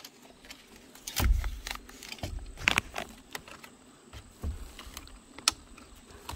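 Footsteps, with a dull thump about once a second or so, mixed with scattered sharp clicks and crackles.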